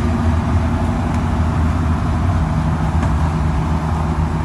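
Steady low drone of the boat's engines running under way, heard from inside the cabin.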